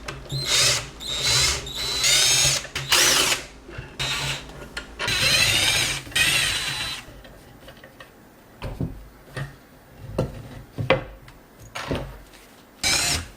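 A power drill-driver backing out screws in several short bursts, its pitch rising and falling with each run, over the first seven seconds. After that come small clicks and knocks of metal parts being handled.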